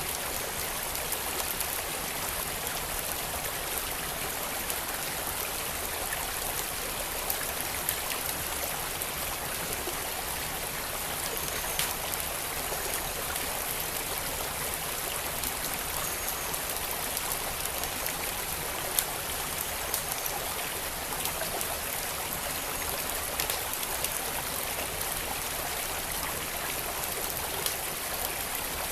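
A stream flowing steadily, with a wood fire crackling over it: scattered sharp pops and snaps every few seconds.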